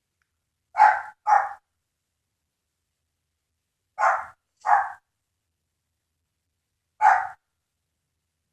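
A dog barking: five short barks, in two quick pairs and then a single bark, with silence between them.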